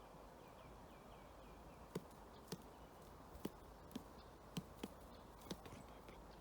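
Woodpecker pecking at wood: about seven sharp, irregularly spaced taps, single blows rather than a drumming roll. A faint series of short chirps sounds in the first second and a half.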